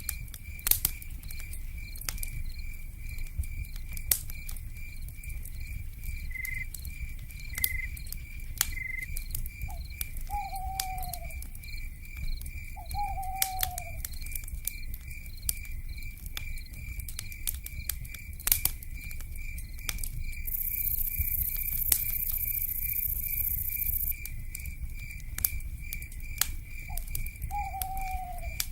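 Crackling wood fire with sharp, irregular pops over a low rumble, under a steady pulsing insect trill. An owl gives a short falling hoot three times, and a burst of high cicada buzzing rises for a few seconds past the middle.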